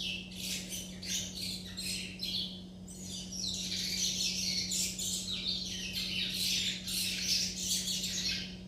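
Young curiós (chestnut-bellied seed finches) twittering without pause: a dense, rambling run of quick high chirps, the chatter of juvenile birds working on their song.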